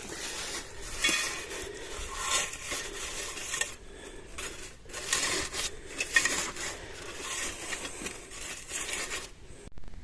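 Dry grass and brush rustling and crunching as it is stuffed into a metal bee smoker, with the can scraping and clinking. The handling stops near the end.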